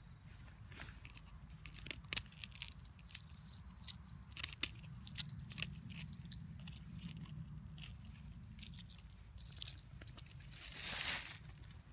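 Irregular crunching and crackling clicks, with a louder rustling swell near the end.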